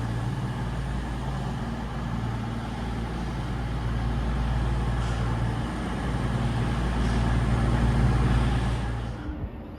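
CrossCountry Class 221 Super Voyager diesel-electric unit's underfloor diesel engines running steadily with a low, even tone, dropping away about nine seconds in.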